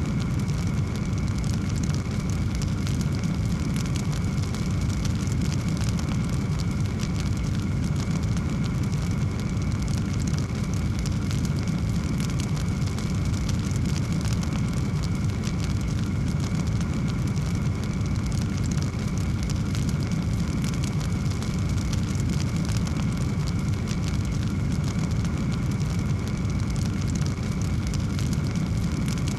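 Wood fire burning in a fireplace, crackling steadily: a continuous low rumble of flame with many small, sharp crackles and pops throughout.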